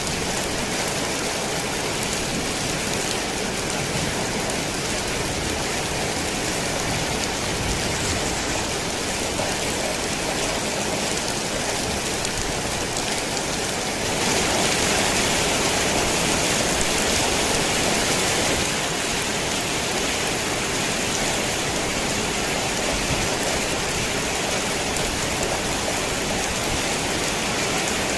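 Torrential rain on a worn tin roof, a dense steady hiss. It grows heavier for about five seconds around the middle, then settles back.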